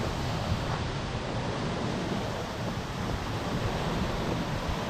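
Heavy rain pouring steadily in a thunderstorm, with wind buffeting the microphone in a low rumble.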